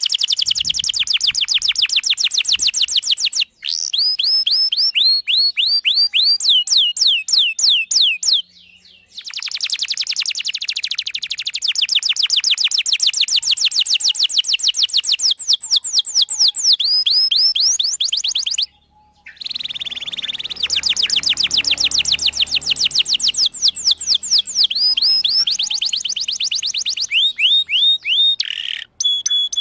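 Domestic canary singing long, continuous song: fast trills of rapidly repeated chirps that switch to new phrase types every few seconds, with brief pauses between runs.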